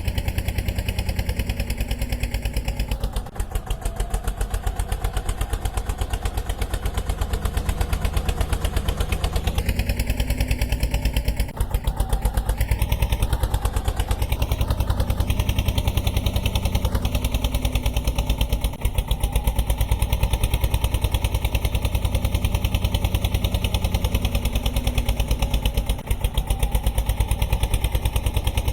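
Road roller's diesel engine running steadily with a fast, even chugging beat, with brief dips in loudness a few times.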